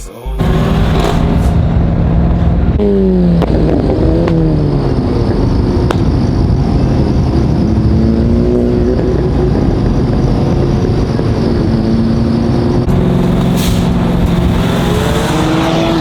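Car engine revved hard and held at high revs on a two-step launch limiter, the exhaust crackling constantly. Its pitch swings up and down about three to four seconds in, then holds nearly steady.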